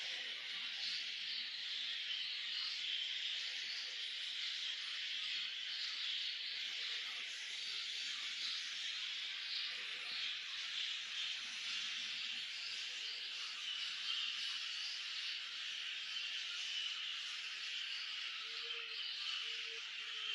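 Baby parrot chicks making a continuous raspy, hissing chatter, high-pitched and steady throughout.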